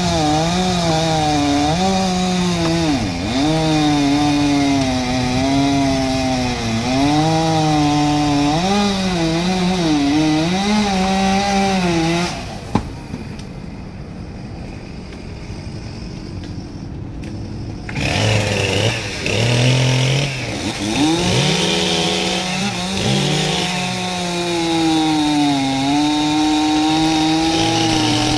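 Two-stroke chainsaw cutting through a large tree trunk, its engine pitch sagging and recovering as the chain bites into the wood. About midway it drops back to a quieter idle for around five seconds, then revs up and cuts again.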